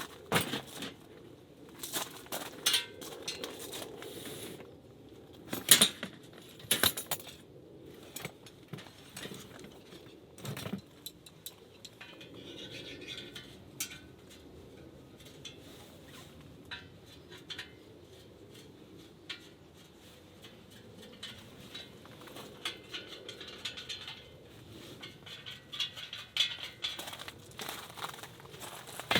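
Camping gear being handled and set up by hand: irregular clinks, clatters and knocks of metal and hard objects, busiest in the first several seconds and again near the end.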